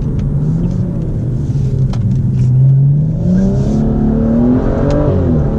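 BMW M235i's turbocharged straight-six accelerating through an Armytrix valved exhaust with the valves open, heard inside the cabin: the engine note rises steadily, dips at a gear change about five seconds in, then climbs again.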